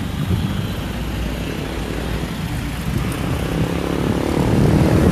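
Engines of cars in slow, crawling traffic running at low speed, with one engine rising in pitch near the end as it revs up.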